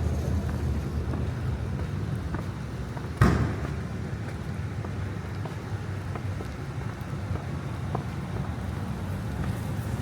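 Steady low rumble of city street ambience, with one sharp thump a little over three seconds in.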